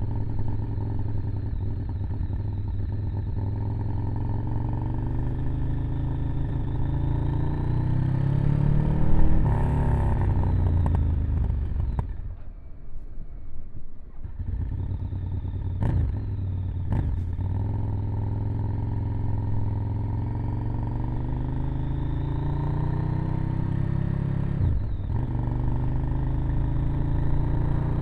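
Ducati Monster 1100 EVO's air-cooled L-twin engine running through its original exhaust under way: the note climbs for the first nine seconds or so, drops and goes quieter for about two seconds, then climbs slowly again, with a few sharp clicks along the way.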